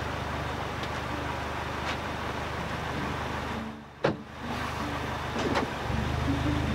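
A 2014 Hyundai Elantra's four-cylinder engine idling steadily, breathing through a newly fitted Apexi dual-funnel power intake in a custom airbox. About four seconds in the sound dips briefly and there is a single sharp click.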